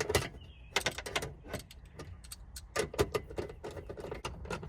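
Hand ratchet with an 8 mm socket clicking in short runs as the screws of the fuel-pump access cover are tightened, with a few knocks from handling the cover.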